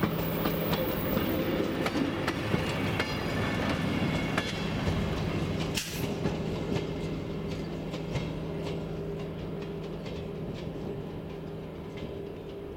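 Railway coaches rolling away along the track, wheels clicking irregularly over the rail joints above a steady low hum. The clicking thins out and the sound fades in the second half as the train recedes.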